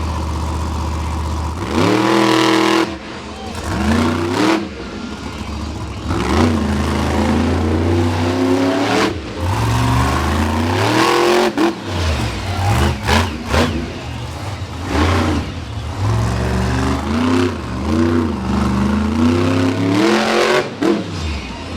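Monster truck engine revving hard on a race run. It launches with a sharp rise in pitch about two seconds in, then keeps rising and dropping in pitch as the throttle is worked on and off over the course.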